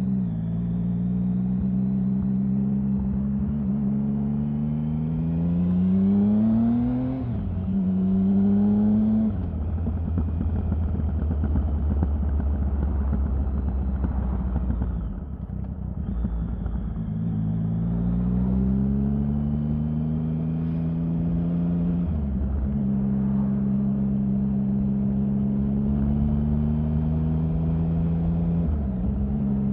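Triumph Sprint 1050's three-cylinder engine pulling up through the gears: the pitch rises, then drops sharply at shifts about seven and nine seconds in. It settles into a lower, steady run, pulls up again from about seventeen seconds in with another shift near twenty-two seconds, and drops once more near the end.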